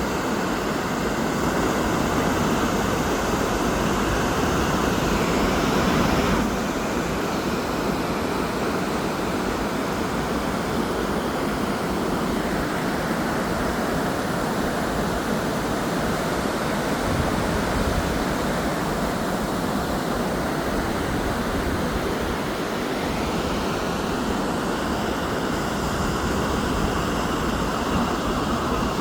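Waterfall: a steady rush of falling water, a little louder for the first six seconds or so.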